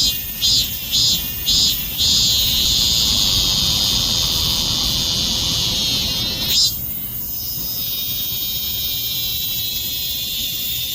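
Cicada singing: a high buzz pulsing about twice a second, then drawn out into one long continuous buzz that cuts off sharply about six and a half seconds in, leaving a fainter steady buzz.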